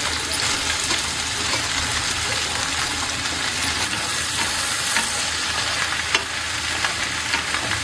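Soya chunks sizzling as they fry in hot oil in a kadhai, being stirred, with a few faint clicks of the spatula against the pan.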